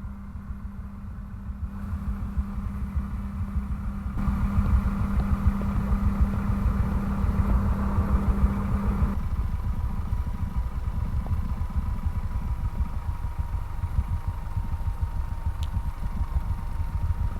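Piper PA-38 Tomahawk's four-cylinder Lycoming O-235 engine running at taxi power, a steady low rumble that grows louder about four seconds in.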